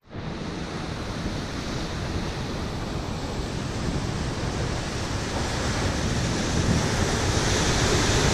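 Steady rushing noise of ocean surf and wind buffeting the microphone, slowly growing louder.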